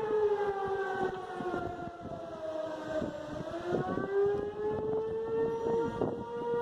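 Outdoor tornado warning siren wailing, its pitch sliding down and then climbing back about halfway through.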